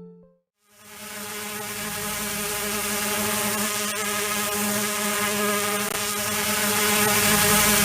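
Quadcopter drone's motors and propellers buzzing steadily at one pitch, fading in from silence about a second in.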